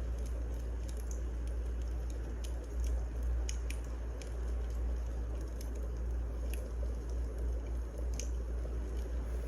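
Wood fire burning: a steady hiss and low rumble with scattered sharp crackles and pops.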